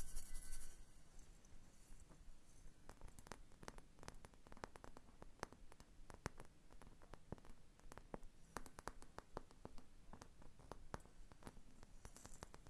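Fingernails making soft, irregular taps and scratches, many small clicks at an uneven pace, after a louder hissing noise that stops within the first second.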